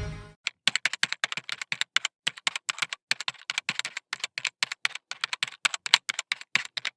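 Keyboard typing: a quick, irregular run of sharp clicks, several a second, on an otherwise silent background. Music cuts off just after the start.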